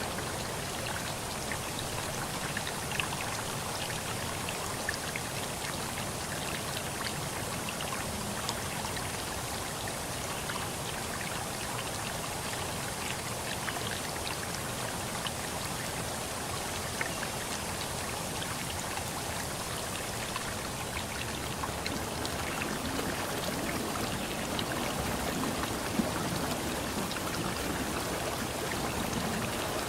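Steady rush of water in the open, with many small drip-like ticks scattered through it.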